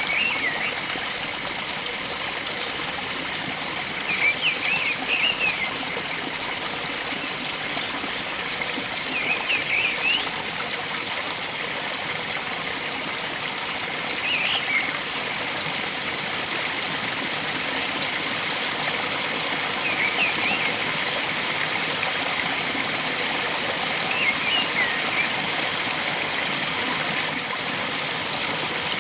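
Steady rush of flowing stream water, with a bird repeating a short phrase of quick rising and falling notes about every five seconds.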